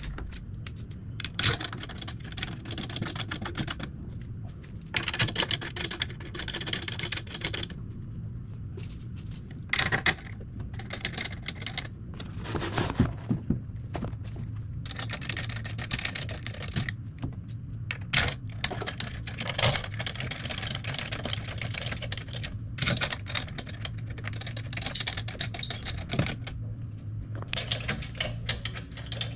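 Irregular clicking and rattling of small hard parts and hand tools being handled during repair work, with clusters of quick taps and sharper knocks, over a steady low hum.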